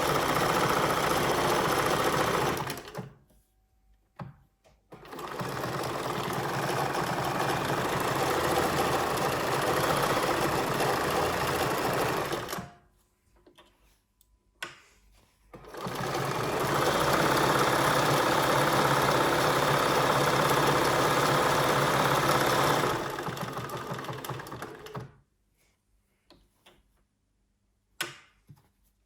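Bernina 1230 sewing machine running in three runs of a few seconds each, stopping between them; the last run eases off before it stops. A few light clicks follow near the end.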